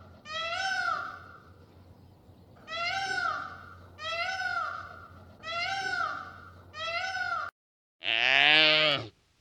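Animal calls: six short, arching, high-pitched calls about once a second, then a cut to brief silence and one louder, lower drawn-out call near the end.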